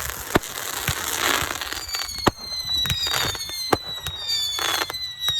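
Consumer fireworks going off: sharp bangs every second or so over a hissing crackle. From about two seconds in, several high whistles sound together, each falling slowly in pitch.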